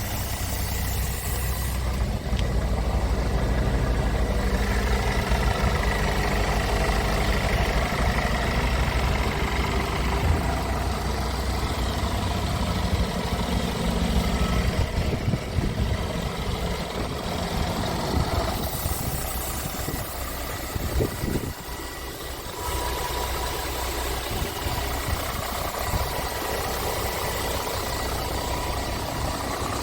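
Scania R500 tractor unit's 13-litre inline-six diesel idling steadily, with a few knocks and a slight drop in level about two-thirds of the way through.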